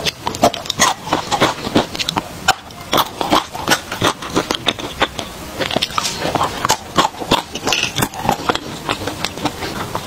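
Close-miked biting and chewing of hard chocolate bark with hazelnuts: a rapid, irregular run of crisp snaps and crunches.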